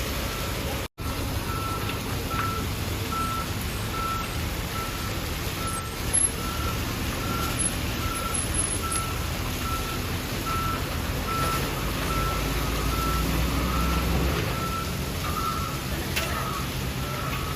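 A truck's reversing alarm beeps steadily at one pitch, about one and a half beeps a second, over a truck engine running low, which grows louder past the middle. The sound drops out completely for an instant about a second in.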